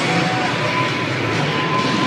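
Steady, loud mixed din of a monster truck arena, with no single sound standing out.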